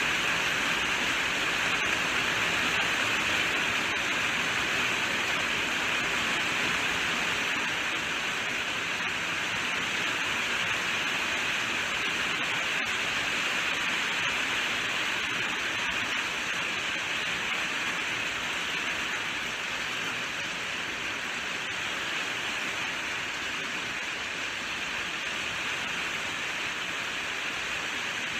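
Rain falling steadily: an even hiss with the odd sharper drop tick.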